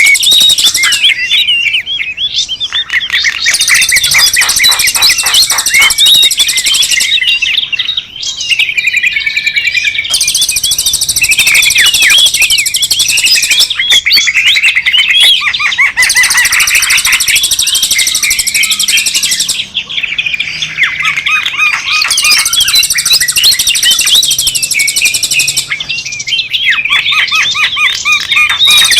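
Dense, loud chorus of many small birds chirping, twittering and squawking at once, a bird-lure (pikat) call recording of agitated birds, in sections that change every few seconds.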